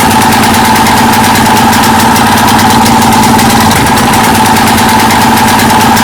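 Subaru Robin EX17 single-cylinder air-cooled engine running steadily, with a fast, even firing rhythm.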